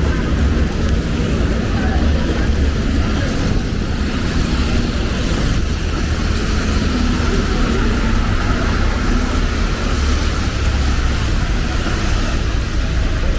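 Steady city street traffic: cars and other vehicles passing on a wet road, a constant low rumble under an even hiss.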